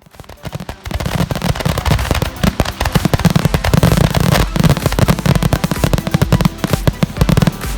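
Fireworks going off: a dense, continuous run of sharp crackling reports over a deep rumble, building up within the first second.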